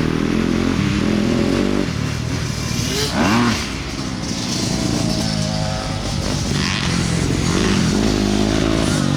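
Dirt bike engines running and revving on a motocross track, the engine pitch rising and falling as the bikes accelerate and ease off.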